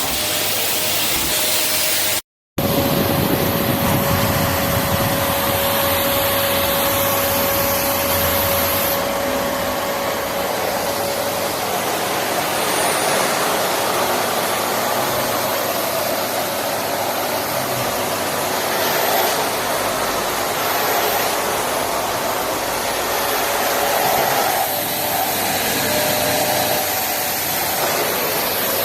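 Rowenta RO3950 bagged vacuum cleaner running steadily: a loud, even rush of air with a faint whine. The sound cuts out for a moment about two seconds in.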